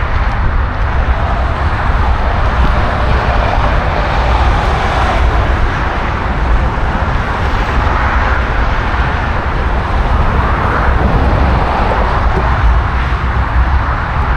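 Wind buffeting an action camera's microphone during a bicycle ride: a heavy, unbroken low rumble with a steady rush over it.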